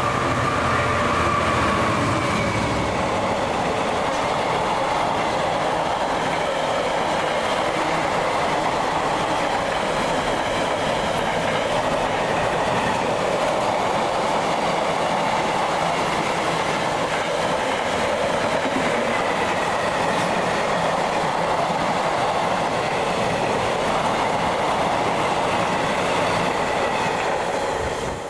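A train running past on the main line: a steady rush of wheel-on-rail noise, with a faint high whine in the first couple of seconds.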